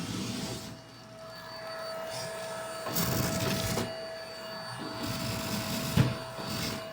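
Vacuum cleaner running on carpet with a steady motor whine, the rush of air swelling and easing in several surges as the nozzle is worked along. There is a sharp knock about six seconds in.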